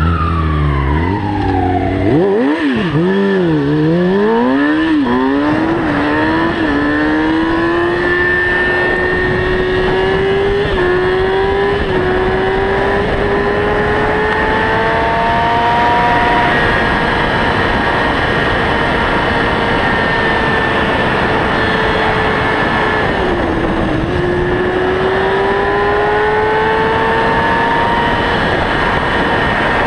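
Motorcycle engine revving up and down hard for the first few seconds, then running at high revs and climbing slowly, with short dips in pitch at the gear changes as it accelerates at speed.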